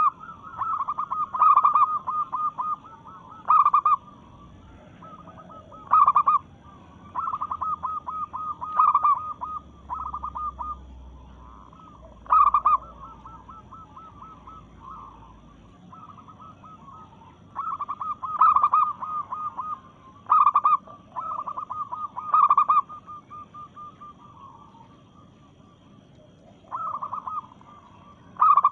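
Female zebra dove (perkutut) calling: bursts of quick, pulsed cooing notes, each burst a second or two long, repeated every few seconds. It is the call of a hen calling to males, used as a lure to set other zebra doves calling.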